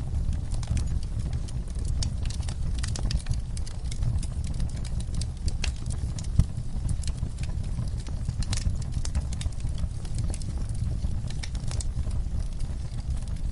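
Wood fire crackling, with frequent irregular pops and snaps over a steady low rumble of the flames; one louder pop about six seconds in.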